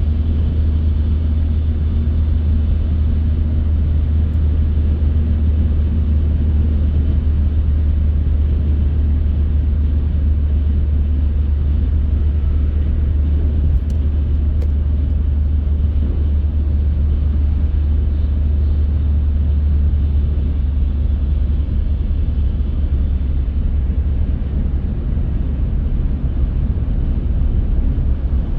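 A car driving at a steady pace: a constant low rumble of engine and road noise with a fainter hiss of tyres and air above it.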